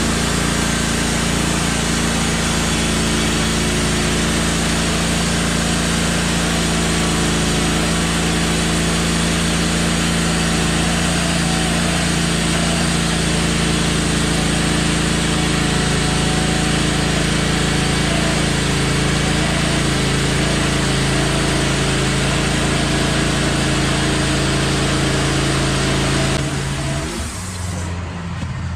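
Wood-Mizer LT15 portable bandsaw mill running steadily as its blade cuts through a pine log, an engine drone under a high sawing hiss. Near the end the hiss and the level drop and the engine note changes.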